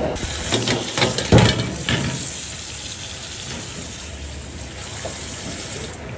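Water running from a tap. A few knocks and clatters sound in the first two seconds.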